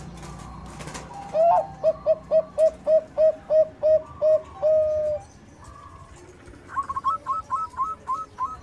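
Bangkok-strain zebra dove (perkutut) cooing: a run of about a dozen quick, evenly spaced staccato coos ending in one longer held note. After a short pause comes a higher, faster run of short notes.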